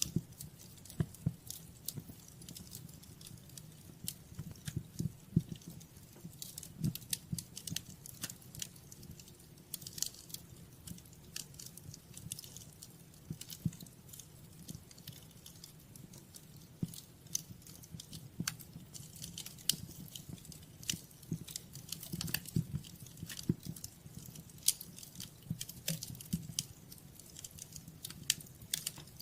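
Wood fire crackling, with irregular snaps and pops over a low steady rumble of the flames.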